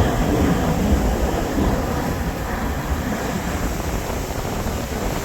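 Wind buffeting the microphone, a choppy low rumble over a steady wash of sea water.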